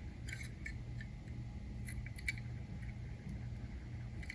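Faint, scattered clicks and taps of small die-cast toy vans and their plastic packaging being handled, over a steady low hum.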